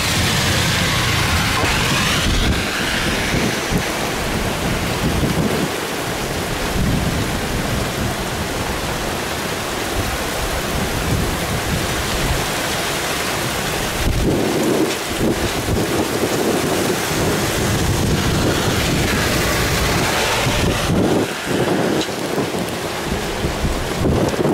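Heavy tropical rain pouring steadily, with a deep, wavering rumble underneath.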